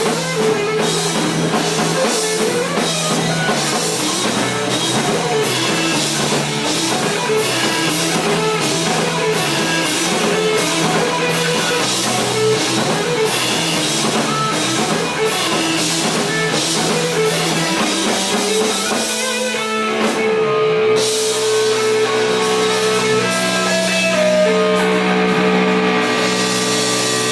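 Rock band playing an instrumental passage, guitar over a steady drum-kit beat. About three-quarters of the way through, the drums drop out and the band holds long, ringing chords.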